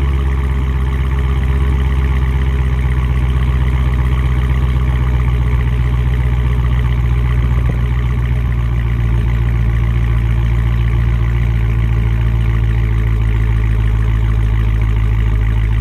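Stock 2019 Dodge Challenger Scat Pack's 392 HEMI V8 idling steadily in track mode, less than a minute after a cold start, with a deep, even exhaust note.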